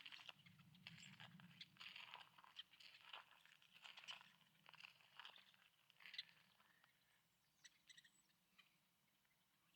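Faint footsteps crunching on the ground during a walk, about one step a second, growing sparser and quieter near the end.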